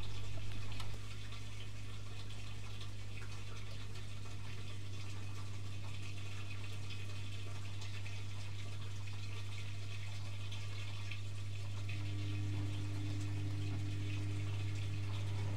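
Privileg Multispar 5110 washing machine taking in water: a steady rush of water into the machine over a constant low hum.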